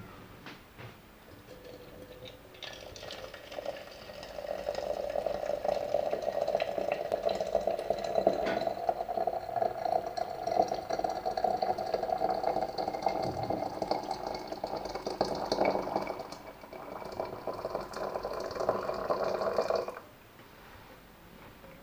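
Steady sound of liquid, building over the first few seconds and cutting off abruptly near the end.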